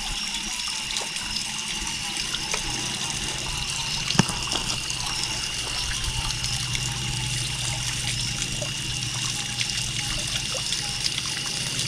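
Water trickling steadily, a small flow running down into a creek pool, with a few faint clicks.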